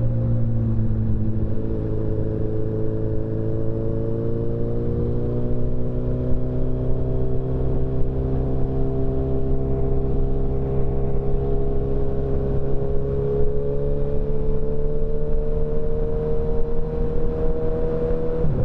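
Motorcycle engine heard from the rider's seat while cruising, its pitch climbing slowly as the bike gains speed, then dropping sharply near the end. A steady low wind and road rumble runs underneath.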